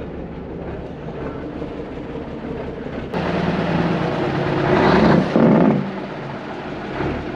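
Heavy diesel vehicle engine running steadily. The sound changes abruptly about three seconds in, and a louder rush of noise swells and fades around five seconds in.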